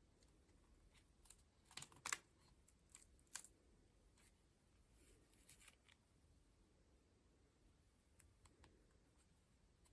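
Paper collage pages being turned by hand: soft paper rustles and light crackles, loudest about two seconds in, again around three and five seconds in, then a few faint ticks.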